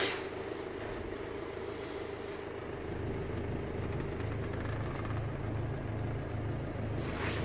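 Ford Transit Connect van idling with its Carrier Transicold refrigeration unit running: a steady hum, a click at the start, and a deeper pulsing throb that grows stronger about three seconds in.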